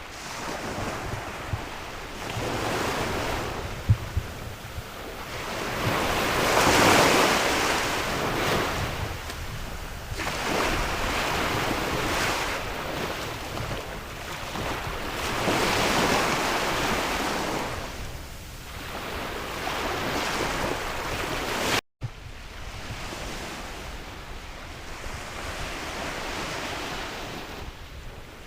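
Sea waves washing onto a shore, the surf swelling and ebbing every few seconds, with wind buffeting the microphone. The sound cuts out for an instant about three quarters of the way through.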